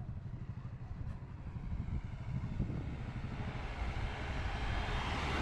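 A vehicle's low rumble, growing steadily louder, with a hiss that builds toward the end.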